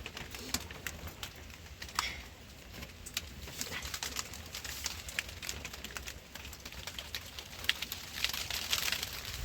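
Rain pattering and dripping, with many sharp irregular drop clicks over a steady hiss.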